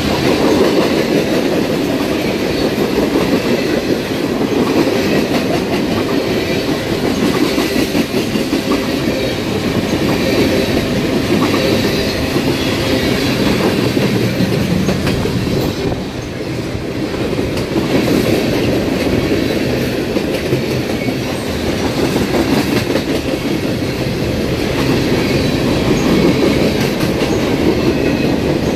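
Freight train rolling past, its cars' wheels clattering steadily over the rail joints.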